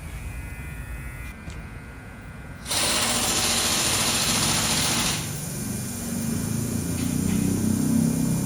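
Workshop machinery: a low mechanical rumble, then a loud steady hiss that starts about three seconds in and stops some two seconds later, then a machine running with a low hum.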